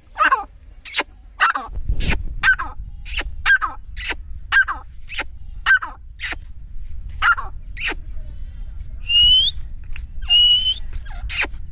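Grey francolin (Dakhni teetar) calling loudly and repeatedly, sharp short calls almost two a second, with a pause about two-thirds of the way through. Two short rising whistles come in the pause. A low rumbling noise sits underneath from about two seconds in.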